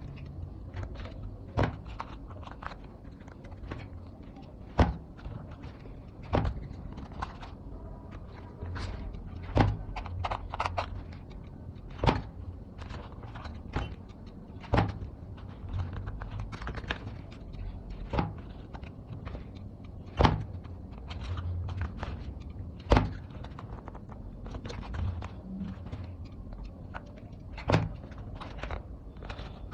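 Hand-crafting sounds from working on a bench: sharp clicks and knocks every two to three seconds over a low rumble.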